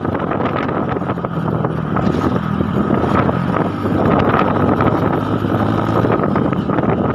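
Wind buffeting the microphone over a steady engine drone, as from a moving vehicle.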